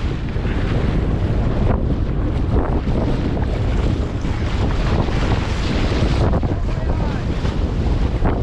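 Strong, gusting wind buffeting the microphone: a loud, steady low rumble with a rushing hiss above it that swells and eases with the gusts.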